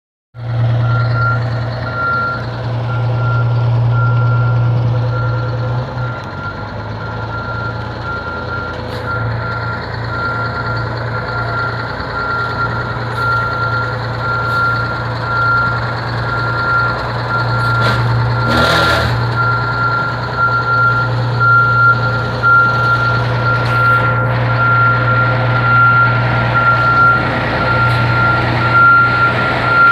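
Fire engine backing into its bay: its reversing alarm beeps steadily over the running diesel engine, with a short hiss of air about two-thirds of the way through.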